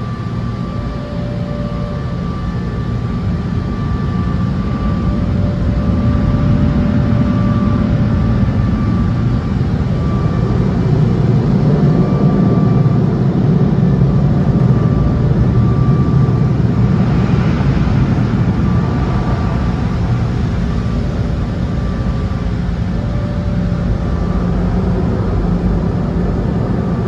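Tunnel car wash machinery running around the car: a loud, steady low rumble and rush that swells through the middle, with faint whining tones that come and go.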